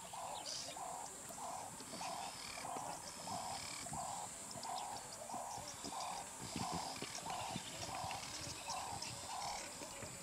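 A bird calling a long, even series of short, hoarse notes, about two a second, which stops near the end.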